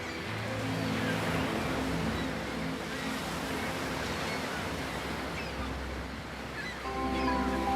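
Soft ambient music of long held low notes over a steady wash of ocean water noise; a pair of higher held notes comes in near the end.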